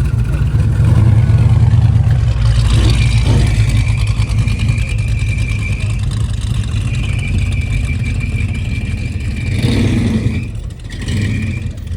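A car engine running with a deep rumble.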